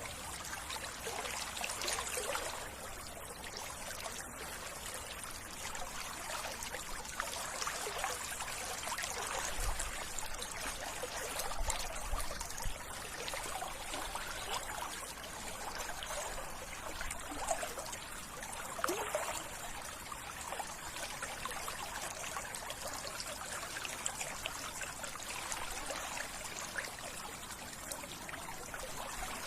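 Small stream trickling steadily, with many small splashes and no breaks.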